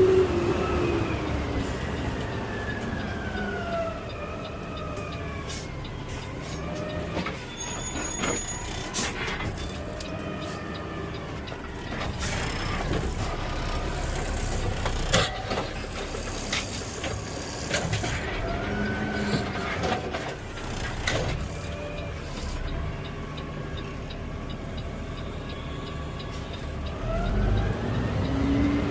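Garbage truck driving, heard from the cab: its engine and drivetrain whine falls in pitch as it slows at the start, rises and falls with speed through the middle, and climbs again as it speeds up near the end. Scattered clicks and knocks ride over the steady running noise.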